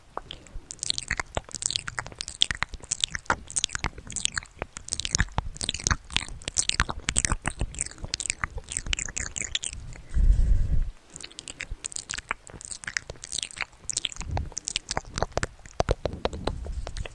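Close-miked ASMR trigger sounds: dense, rapid crackling and clicking, with a short, loud low thud about ten seconds in.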